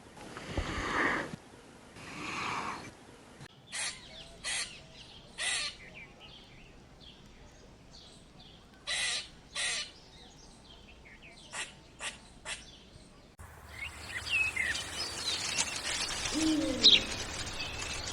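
Birds calling: a few breathy bursts at first, then a string of short, sharp calls spaced about half a second to a second apart, and after a change of scene about two-thirds of the way through, chirping with low, falling calls near the end.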